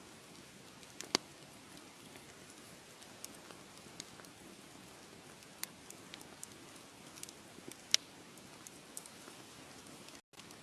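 Wood fire crackling in a fireplace: a soft steady hiss with scattered sharp pops, two louder ones about a second in and near eight seconds. The sound cuts out for a split second near the end.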